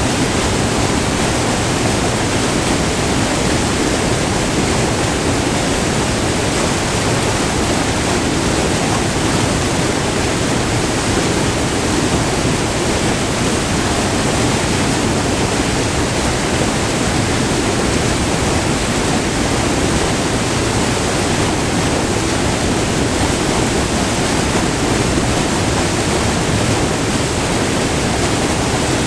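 Short multi-tiered river waterfall rushing: a loud, steady roar of white water.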